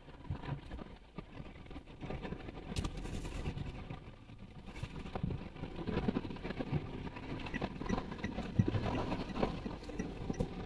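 Toyota Wigo on the move: steady road and engine noise with scattered small knocks and rattles, growing fuller about halfway through.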